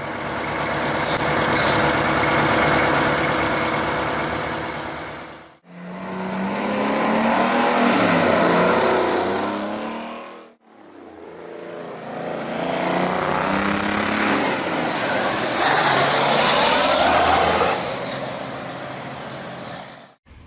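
Detroit Diesel truck engines running in three short clips, each fading in and out. The first runs at a steady pitch; the second and third rev up and down, and near the end a high whistle falls in pitch.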